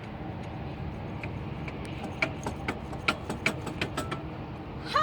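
A run of sharp metallic clicks and clinks, about eight in two seconds, as the old alternator is wiggled and knocked loose in a Subaru Forester's engine bay, over a steady low background rumble.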